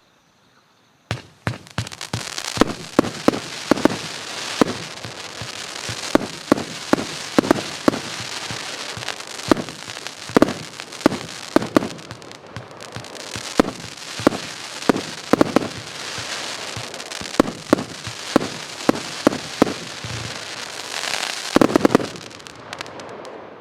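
Pyroworx Abyss firework going off: a long run of sharp shots, two or three a second, over a steady crackling hiss. It starts about a second in after a moment of near silence, with a denser volley near the end before it dies away.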